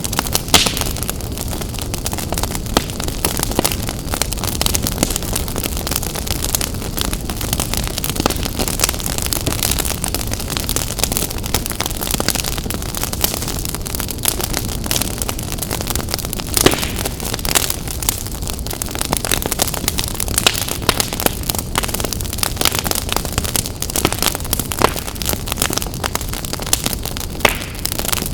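Wood fire burning in a fireplace, crackling steadily with frequent sharp pops and snaps at irregular moments over a low rumble of the flames.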